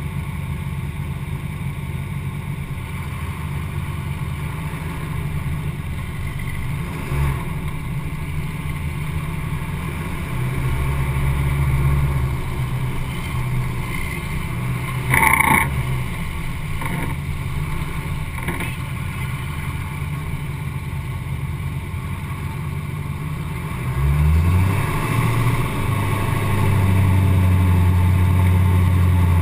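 Duramax V8 turbo-diesel pickup engine running, its note stepping up about ten seconds in, then climbing in revs about twenty-four seconds in and holding louder. A short loud burst sounds about halfway through.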